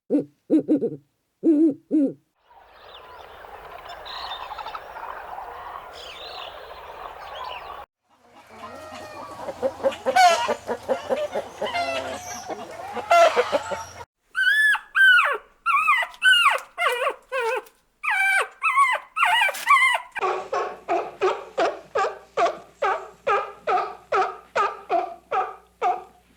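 A string of different animal calls cut one after another: three low hoots at the start, owl-like, then a stretch of hiss-like noise, then a run of chattering, swooping calls, and finally a fast, even series of short calls, about three a second.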